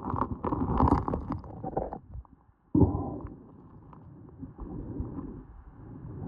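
Muffled underwater knocks and scrapes of creek-bed rocks and gravel being moved by hand, with a short drop-out a little past halfway followed by a sudden knock.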